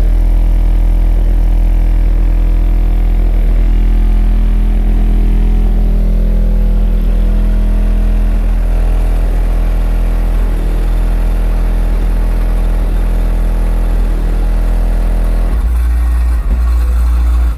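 Two Skar 15-inch subwoofers playing very loud, deep bass that kicks in suddenly and holds steady low notes, with the bass line changing near the end.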